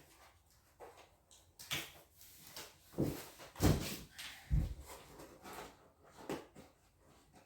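Irregular knocks, thuds and scraping as parts are handled and set down, the heaviest thuds about three to four and a half seconds in.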